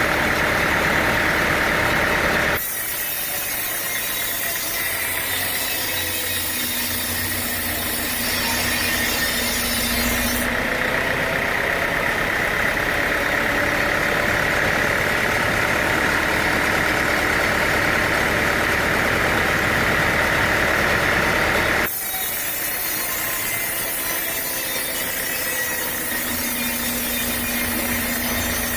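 Sawmill machinery running steadily: an engine hum with a steady high whine. The sound changes abruptly twice, about two and a half seconds in and again near twenty-two seconds.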